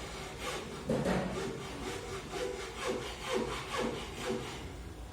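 Rhythmic rasping strokes on wood, about two a second, the strongest about a second in.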